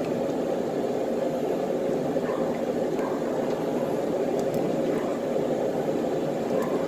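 Steady machine noise, even throughout, with a few faint clicks.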